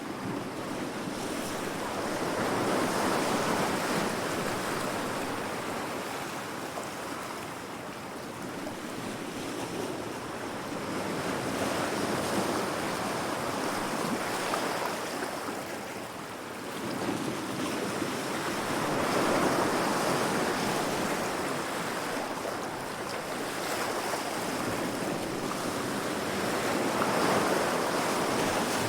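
Heavy sea waves crashing against rocks, the surf swelling and easing four times, about every eight seconds.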